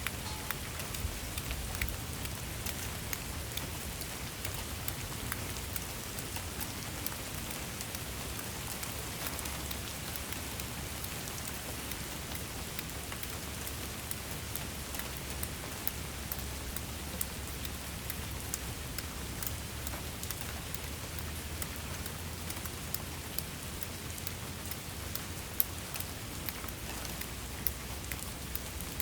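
Steady rain falling, a constant hiss with many close, sharp drop ticks and a low rumble underneath; a few single drops land louder, the loudest about 25 seconds in.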